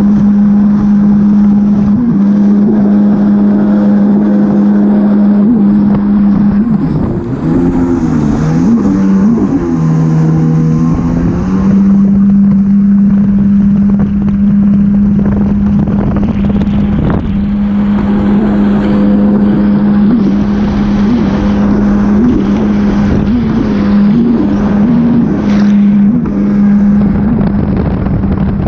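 Jet ski engine running at a steady high speed, with rushing noise. From about seven to eleven seconds in, the revs waver and drop, then come back up to the same steady pitch.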